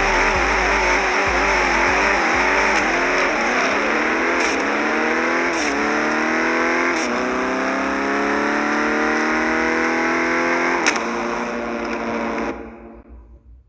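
A car engine accelerating hard at full throttle through the gears: its pitch climbs steadily and drops back at each of about three shifts, then the sound cuts off suddenly near the end.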